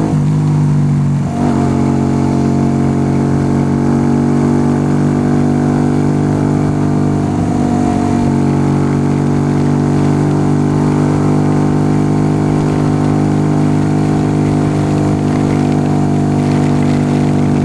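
Yamaha YBR125's single-cylinder four-stroke engine running at a steady cruising speed while being ridden, with a brief dip in the engine note a little over a second in.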